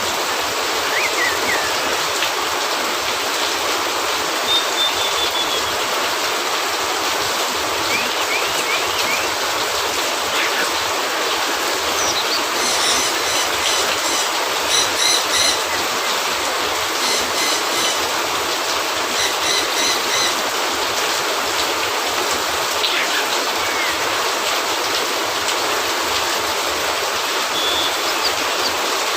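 Steady rain, falling evenly throughout. Now and then a brief faint high chirp sounds over it, and in the middle a run of rapid high repeated ticking comes and goes for several seconds.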